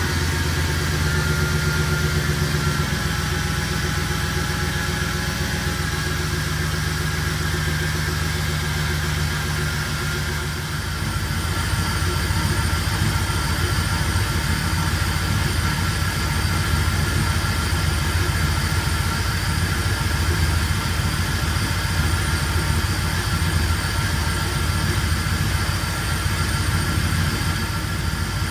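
Rebuilt car engine idling steadily, an engine being checked for misfires. Its low note changes about three seconds in and again about ten seconds in.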